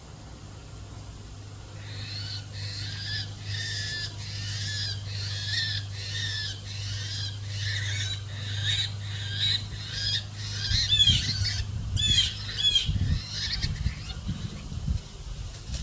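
A bird calling over and over, about one and a half calls a second, starting about two seconds in; near the end the calls turn sharper and higher, with low thumps underneath.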